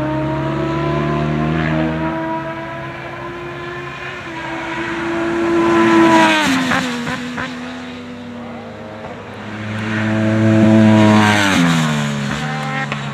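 Middleweight sportbike racing motorcycles, 650–660 cc twins and triples, at full throttle on the opening lap. The engine notes swell as the bikes approach and drop sharply in pitch as they pass: one pass about halfway through, a second near the end.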